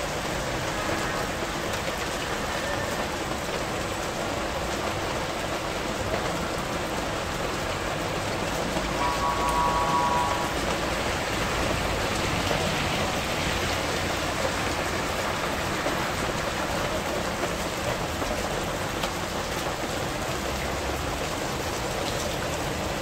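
Heavy rain falling steadily on wet pavement and puddles. A brief tone is heard about nine seconds in.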